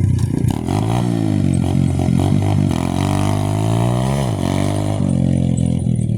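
Dirt bike engine running hard, its pitch climbing with the throttle and dropping back several times.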